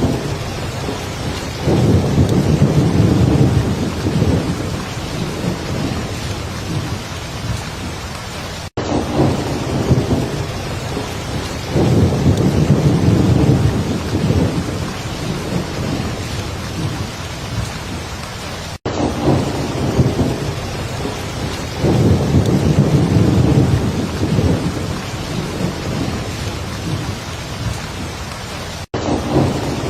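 Heavy rain falling steadily, with a low roll of thunder swelling and fading about every ten seconds. The same ten-second stretch repeats as a loop, with a brief cut to silence at each join.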